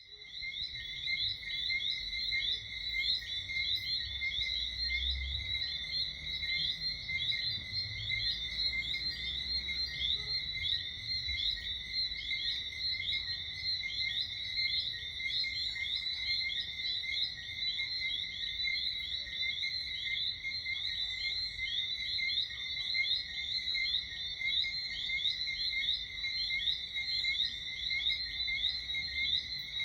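Night chorus of many Caribbean frogs calling at once: overlapping short whistled chirps at two pitches, repeating densely and without pause.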